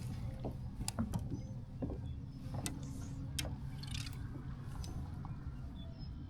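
A few light clicks and taps, about one every half second to a second, over a steady low rumble.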